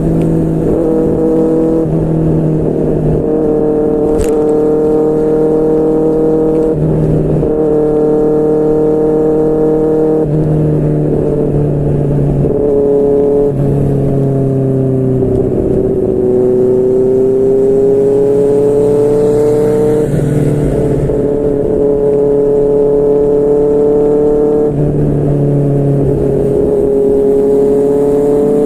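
QJMotor SRK600 inline-four engine running through a Yoshimura R11 exhaust while riding at a mostly steady engine speed, broken by several short throttle changes. Around the middle the note sags slowly and climbs back up. There is one sharp click about four seconds in.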